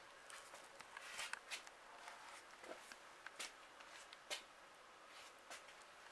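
Near silence in a small room: faint room tone with scattered soft clicks and taps, about one a second.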